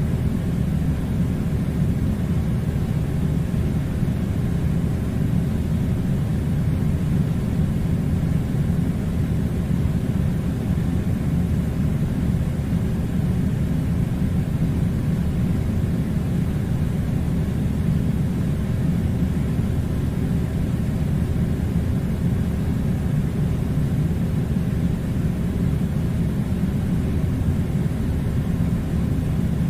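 Air conditioner running: a steady low rumble with faint hiss above it, unchanging throughout.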